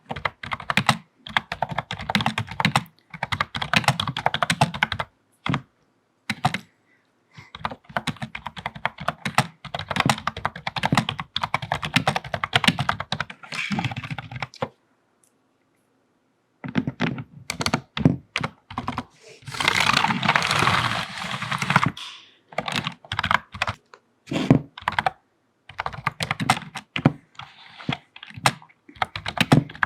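Typing on a computer keyboard with long fingernails: fast flurries of key clicks broken by short pauses, with a complete silence of about two seconds near the middle. About two-thirds of the way through, a couple of seconds of continuous scratchy rubbing across the keys.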